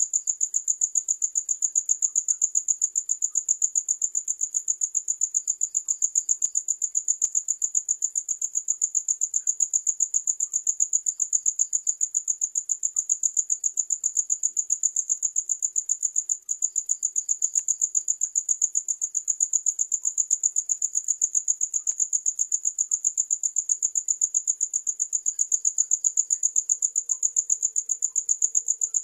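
Cricket chirping: one high, shrill trill made of rapid, evenly spaced pulses that keeps going without a break, apart from a very brief dip about halfway through.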